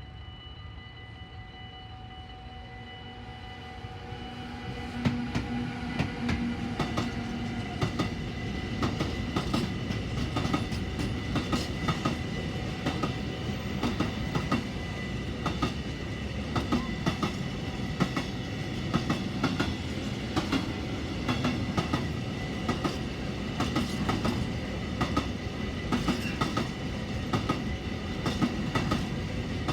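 A container freight train hauled by a Siemens Vectron electric locomotive passing. The rumble builds over the first few seconds, then the wagons' wheels click rapidly over the rail joints under a few steady high whining tones.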